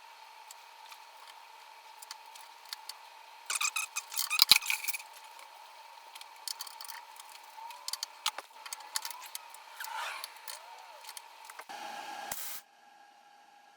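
Metal workshop parts and tools being handled: scattered clicks and light scrapes, with a brief loud jangling rattle about four seconds in, over a faint steady hum.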